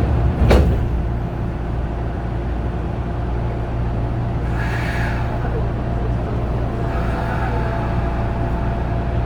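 Inside a Kintetsu 8000 series electric train car: one sharp clunk about half a second in, then the car's steady low hum, with a faint steady tone joining from about seven seconds.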